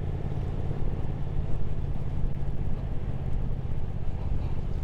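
Triumph Speed Twin 1200's parallel-twin engine running steadily at cruise, under an even rush of wind and road noise.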